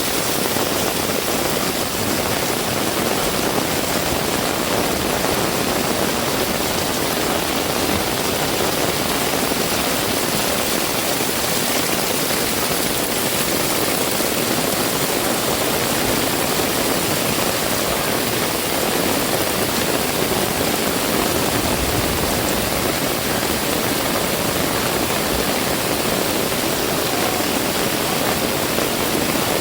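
Heavy rain pouring down in a steady, dense hiss with no breaks.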